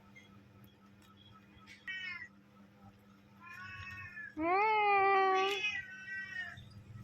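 A cat meowing in a short series of calls. A brief falling meow comes about two seconds in, then a longer one, and the loudest and longest meow about two-thirds of the way through runs straight into a last drawn-out call.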